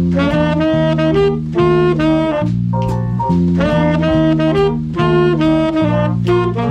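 Swing big band playing, the saxophone section carrying sustained phrases with brass over a moving bass line.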